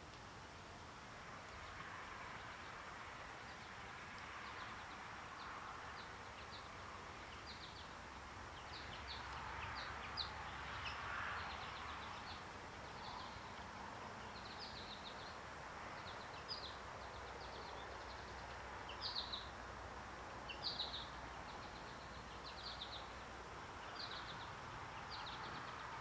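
A bird chirping over and over, short high chirps about once a second, with soft breathy blowing beneath as a man blows on smouldering tinder to coax it into flame; the blowing swells briefly near the start and again about ten seconds in.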